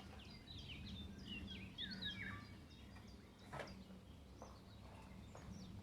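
Small birds chirping in short falling notes over a low steady background hum, with a soft knock about three and a half seconds in.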